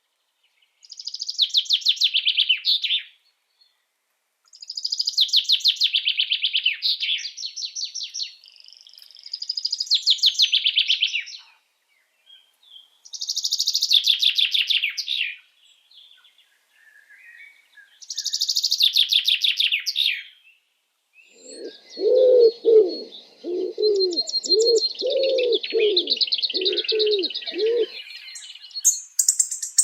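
Small birds singing in bursts of fast, high trills a few seconds long, with short silent pauses between. About two-thirds of the way through, a run of about nine low cooing notes joins in under the continuing song.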